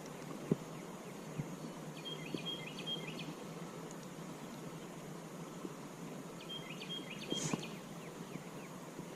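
Faint outdoor ambience: a small songbird sings the same short, high chirping phrase twice, about five seconds apart, over steady background noise. A few light clicks and knocks sound, one about half a second in and one near the end.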